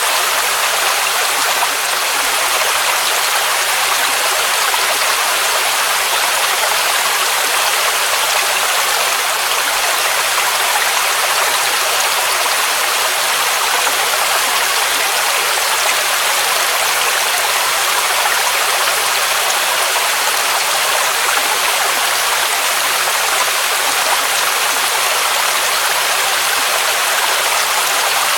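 Waterfall: a mountain cascade's water rushing in a steady, even hiss, bright and high with little deep rumble.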